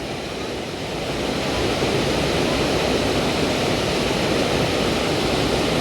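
Steady rush of a waterfall in heavy flow, growing a little louder over the first two seconds and then holding even.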